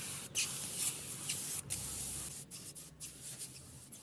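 Pesticide sprayer nozzle spraying an insecticide mix: a loud hiss broken by several short gaps, weakening about three seconds in.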